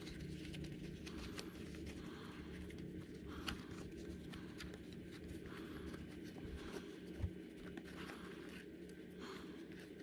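Faint, scattered light clicks and taps of hand work on leather, over a steady low hum; one sharper tap about three and a half seconds in and a low knock about seven seconds in.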